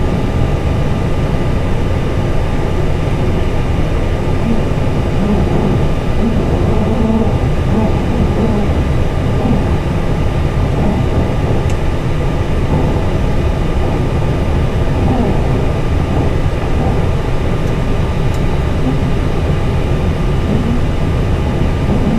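Steady cockpit drone of an Airbus A320 waiting with its engines at idle, a deep rumble under air-conditioning and avionics fan noise, with a thin steady high whine over it.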